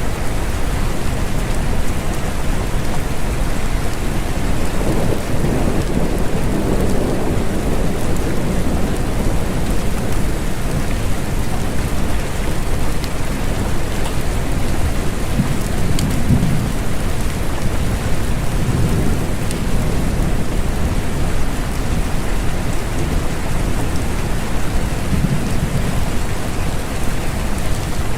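Steady rain falling, with low rumbles of distant thunder swelling several times.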